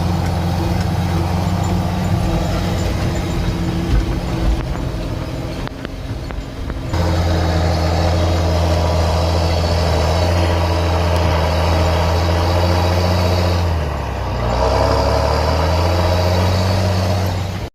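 John Deere 7710 tractor's 8.1-litre common-rail diesel engine running steadily. Its note eases off about six seconds in and comes back louder a second later, then dips briefly again near the end.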